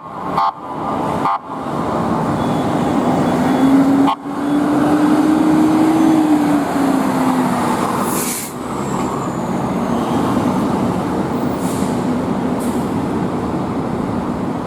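Fire engine's diesel engine running loudly as the truck drives by, with a steady rush of engine and road noise and a hum that rises and then falls in pitch a few seconds in.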